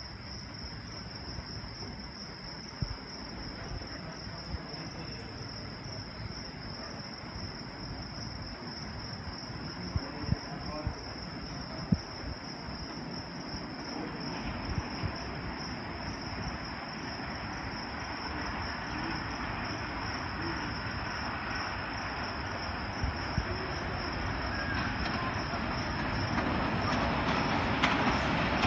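Crickets chirring in a steady high trill, while the rumble of an approaching Pakistan Railways diesel-hauled express train builds gradually louder. A few sharp knocks stand out along the way.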